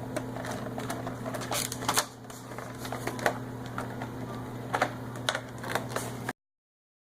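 Plastic volcano mold halves being handled and snapped together: a scattering of sharp clicks and taps over a steady low hum, cutting off to dead silence about six seconds in.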